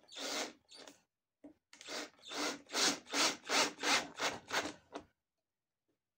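Rapid back-and-forth hand-tool strokes rubbing on wood, about three a second, in a run of about eight that stops about five seconds in.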